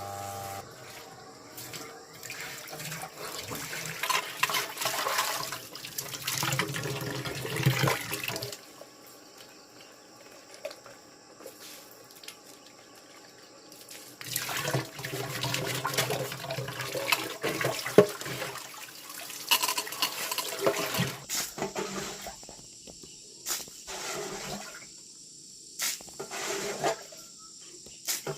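Water being poured and splashed in two long stretches, with sharp knocks in between.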